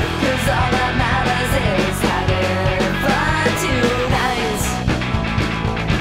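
Punk rock song playing: a full band with steady drums and a melody line gliding over it.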